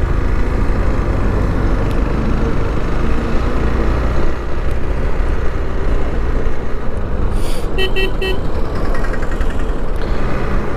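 Steady wind noise on the microphone of a moving motorcycle, mixed with road and engine noise. A little past the middle, a vehicle horn sounds in a quick series of short toots.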